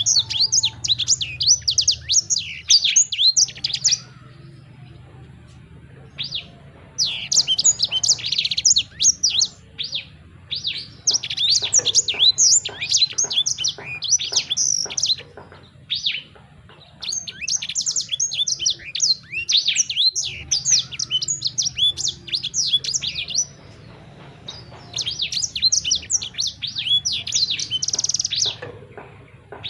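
Small songbird singing phrases of rapid, high chirps and twitters, each lasting a few seconds and separated by short pauses.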